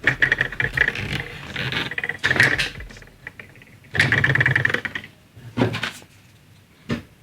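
Singer EZ toy starter sewing machine running in several short bursts, stopping and starting, with its small motor and needle stroking rapidly.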